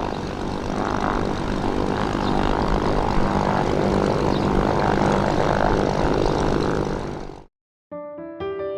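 Kawasaki BK117 C-1 helicopter's twin Arriel 1E2 turboshaft engines and four-bladed rotor running loud and steady, cutting off suddenly near the end. Soft piano music starts just after.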